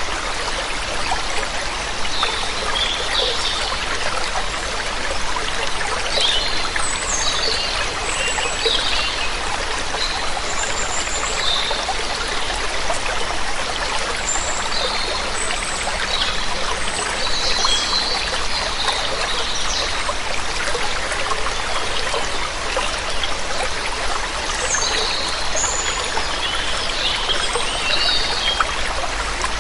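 Waterfall's steady rush of water, with small birds chirping in short calls scattered throughout over it.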